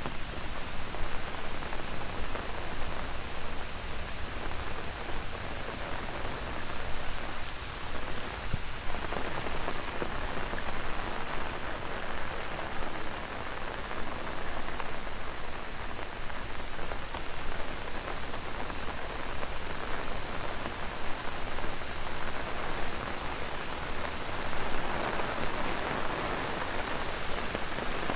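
Steady rainfall, with a chorus of cicadas keeping up a continuous high buzz over it.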